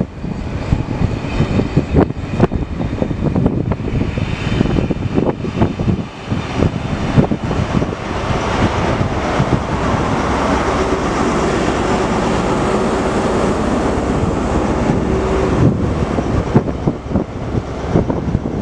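A test train passing close by. Its coaches' wheels clatter over the rail joints, then a Class 43 HST diesel power car goes past with a steady engine note and a held tone. The wheel clatter picks up again as it draws away.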